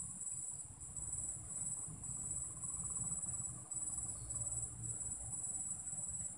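Steady, high-pitched insect chorus of crickets chirping continuously, over a low rumble.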